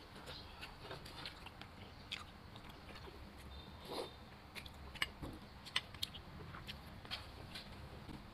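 Close-up chewing and mouth sounds of a person eating spoonfuls of vegetable soup and rice, with soft scattered clicks. Two sharp clicks a little past the middle stand out, a spoon knocking the glass rice bowl.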